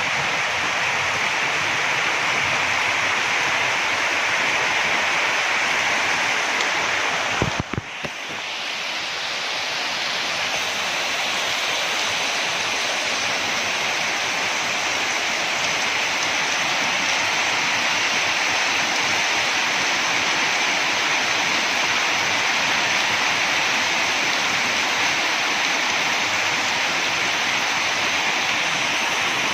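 Heavy rain pouring down: a steady, dense hiss. About a quarter of the way through there are a couple of brief knocks and a short dip before the rain noise returns.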